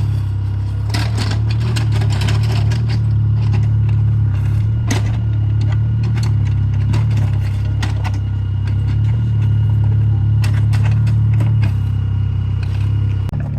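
Mini excavator engine running steadily under load, with scattered clanks and rattles of the machine and stone throughout.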